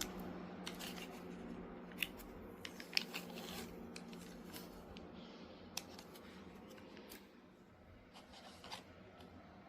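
Crisp handling noises of a fast-food fried chicken meal: scattered sharp clicks, crackles and rustles, loudest in the first few seconds and sparser later, over a steady low hum.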